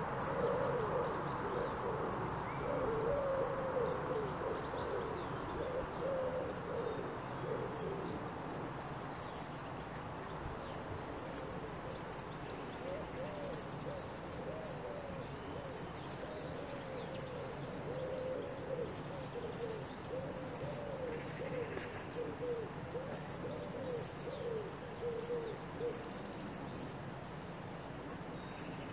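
Wild birds calling: a low call repeated over and over, stopping near the end, with faint higher chirps now and then.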